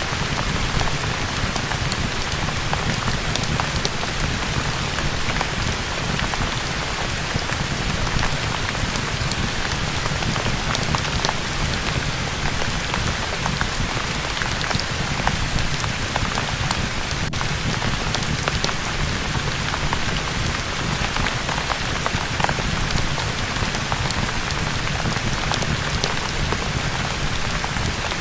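Steady rain falling on a surface: a dense, even patter with scattered sharper drop ticks.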